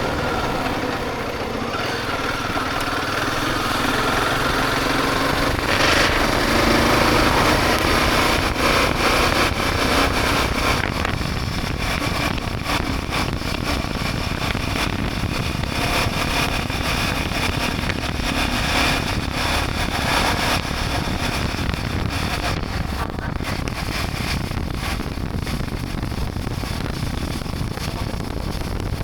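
Motorcycle engine running on the move, with steady road and wind noise. The engine's pitch rises and falls over the first several seconds, then settles into a steady drone.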